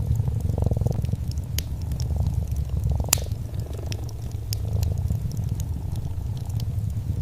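A domestic cat purring steadily in a low, even rumble, with the scattered sharp crackles of a wood fire; one louder pop about three seconds in.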